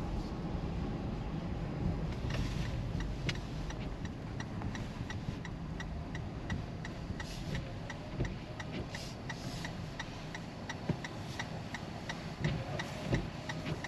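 Car's turn signal clicking about twice a second over steady road and engine noise inside the cabin, the clicks starting about two seconds in.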